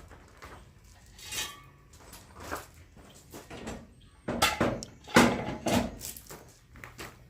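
Metal clinks and clunks of tools and engine parts being handled: a string of separate knocks, loudest about four to six seconds in.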